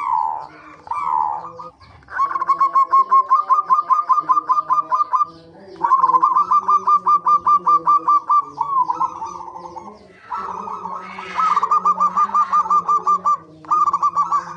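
Zebra dove (perkutut) cooing: a few slurred single coos at the start, then rapid runs of short staccato notes, about eight a second, in bursts of a few seconds each.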